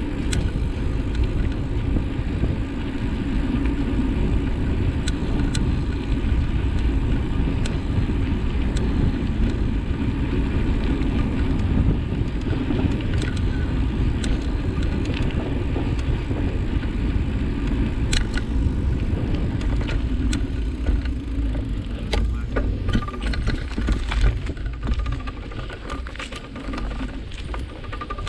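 A bike ridden over a bumpy road, rattling and clicking over a steady low rumble.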